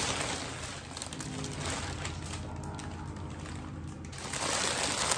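Plastic mailer and the clear plastic bag around a knit cardigan rustling and crinkling as they are handled and the cardigan is pulled out. The crinkling gets louder near the end.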